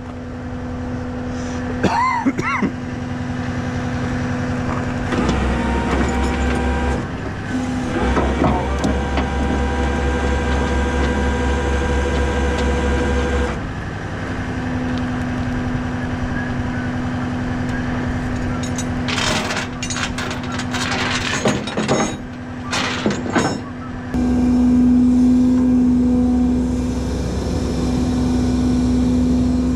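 Rollback tow truck's engine running at raised idle with the PTO hydraulic pump engaged, a steady hum whose lower drone swells and drops a few times. A short run of metal clanks and rattles comes about two-thirds of the way in.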